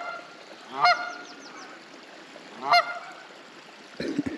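Canada geese honking: three loud, separate honks, each a short call rising slightly in pitch. The speaker takes it as the geese warning him off as he walks near. A few low thumps come near the end.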